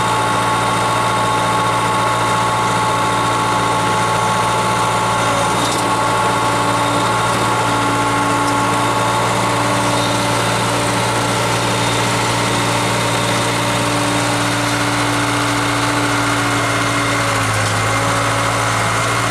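Case 580K loader backhoe's diesel engine idling steadily.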